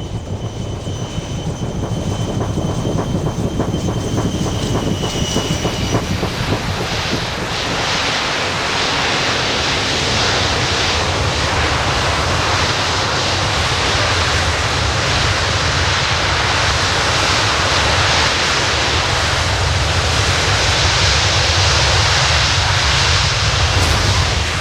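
A large military transport helicopter running close by: rotor beat and turbine noise, growing louder over the first several seconds and then staying loud and steady. A thin high whine fades out early on.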